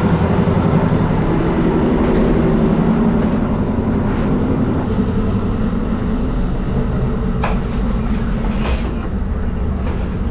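Amtrak passenger train running, heard from inside the car: a steady low rumble and hum, with a few sharp clicks in the second half.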